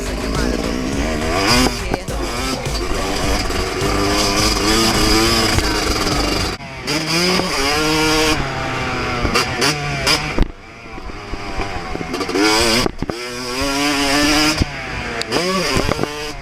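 2024 Yamaha YZ250 two-stroke single-cylinder motocross engine at full throttle, its pitch climbing and falling as it revs through the gears. The throttle is chopped sharply three times, then picked up again.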